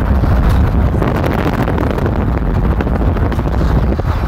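Car in motion: steady low road and engine rumble with wind buffeting the microphone.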